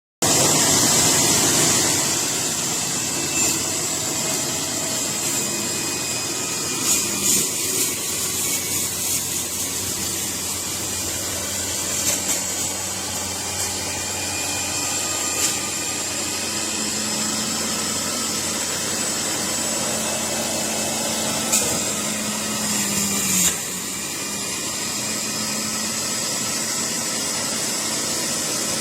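Electric juicer's motor running steadily with a high whine and a low hum, broken by a few brief louder knocks.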